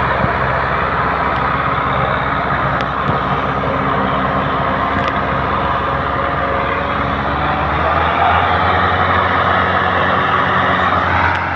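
Tractor diesel engine running hard under load, a steady, loud engine note whose pitch shifts and swells a little about eight seconds in.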